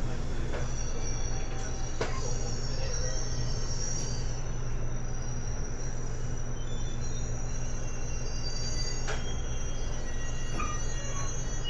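JR Kyushu 811 series electric train, recorded in a car with external-fan traction motors: a steady low hum under thin high-pitched tones that drift slightly in pitch, with a few sharp clicks.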